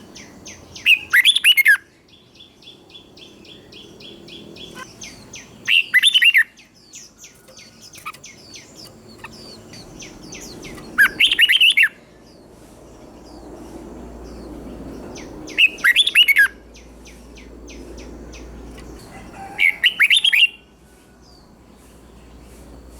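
Red-whiskered bulbul singing short, loud phrases, five times about five seconds apart, with fainter rapid chirping in between.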